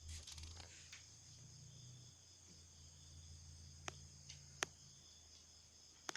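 Faint, steady high-pitched chirring of crickets over a low hum, with a few sharp clicks in the second half.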